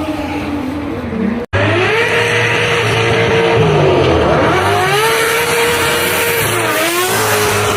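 Drift car engine running hard on track, its pitch rising and falling repeatedly as the throttle is worked, with tyre squeal underneath. It starts abruptly about a second and a half in after a brief dropout.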